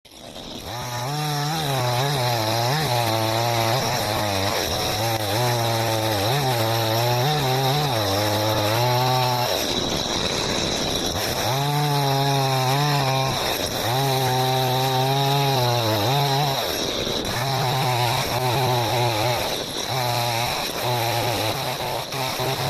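Two-stroke chainsaw cutting points on wooden fence stakes. The engine pitch rises and dips as it bites into the wood, and it eases off briefly twice between cuts.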